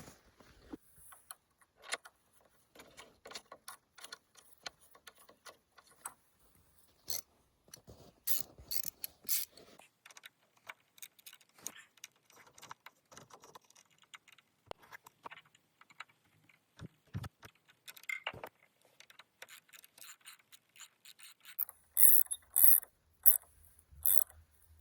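Irregular metallic clicks and rattles of a replacement tailgate cable and hand tools being handled, with a louder quick run of clicks near the end.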